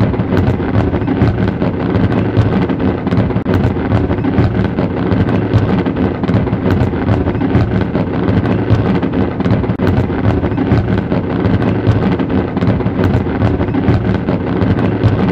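Fireworks display in a dense barrage: a continuous rumble of many shells bursting at once, with a constant spatter of sharp pops and crackles.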